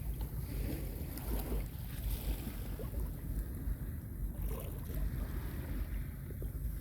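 Calm sea water washing gently at a beach, with wind rumbling on the microphone underneath.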